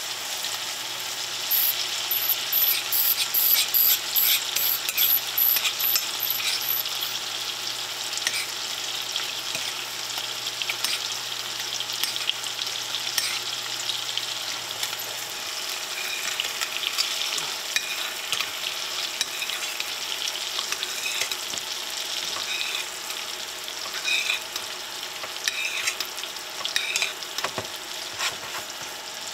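Scallops searing in a stainless steel pan, a steady crackling sizzle, loudest in the first several seconds. Hot fat is spooned over them as they brown.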